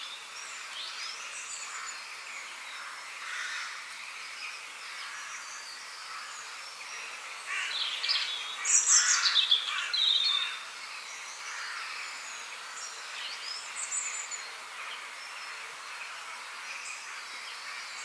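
Several songbirds chirping and singing over a faint steady hiss, with a louder burst of song about halfway through.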